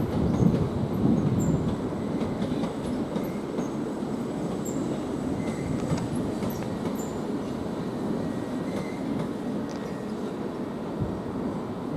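Class 377 electric multiple unit rolling past, its wheels rumbling steadily on the rails, with a few rhythmic thumps over the rail joints in the first couple of seconds.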